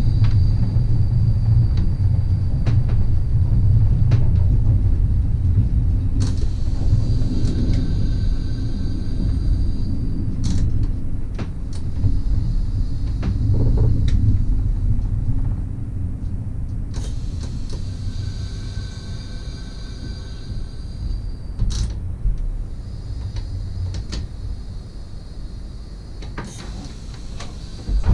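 NSB Class 69 electric multiple unit running along the line, a steady low rumble with scattered sharp clicks from the track, gradually getting quieter.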